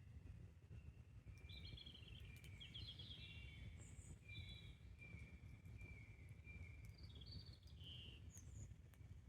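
Faint woodland birdsong, many short chirps and trills from several birds, over a steady low rumble. A few faint sharp crackles come from the burning campfire.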